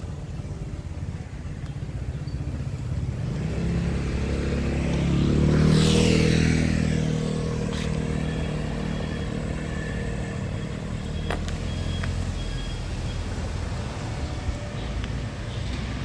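A motor vehicle passes close by: engine and tyre noise swell to a peak about six seconds in, with a high hiss that falls sharply in pitch as it goes past, then fade to a steady low rumble.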